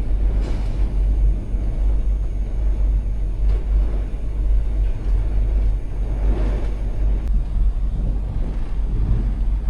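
Thunder rumbling low and steady through the storm, not too bad.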